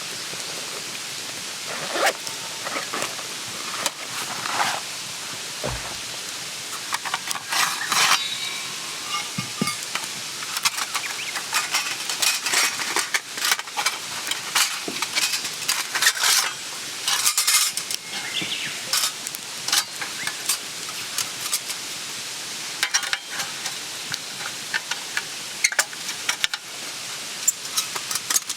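Camp cooking over a wood fire: many sharp clicks and clatters of pots and utensils being handled, over a steady hiss.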